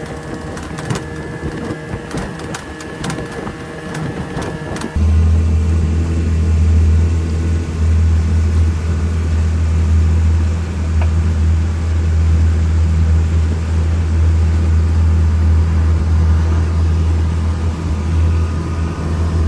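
Clicking and clatter over a steady whine, then about five seconds in a loud, steady low engine drone abruptly takes over.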